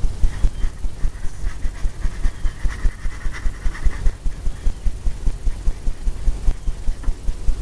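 Paintbrush working oil paint onto a canvas: quick, rhythmic low thumps, about five or six a second, as the brush is scrubbed over the surface in small circles.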